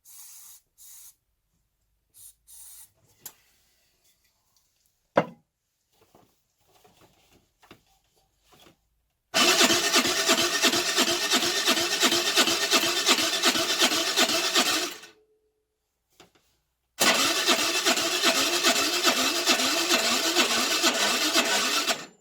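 Baotian Tanco 50cc four-stroke moped engine being cranked on its starter in two spells of about five to six seconds each, turning over evenly but never firing: the engine is flooded, with the plug wetting after a few cranks, which the owner puts down to a fouled carburettor. Before the cranking come a few light handling clicks and one sharp click.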